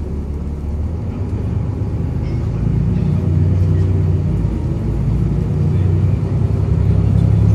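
Volvo B7RLE bus's six-cylinder diesel engine and drivetrain running under way: a low groaning drone that swells louder about two and a half seconds in.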